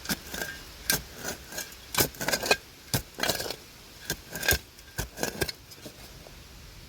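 Digging tool scraping and striking through dirt and debris: a quick run of clinks and scrapes, many with a short metallic ring, thinning out about five and a half seconds in.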